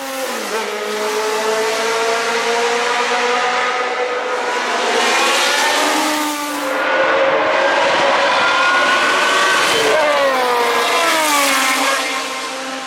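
Racing Cosworth DFV V8 of a historic Formula 1 car, likely the six-wheeled Tyrrell P34, running at full song through its gears. There is a short break for a gear change about six and a half seconds in, and the note slides down in pitch near the end.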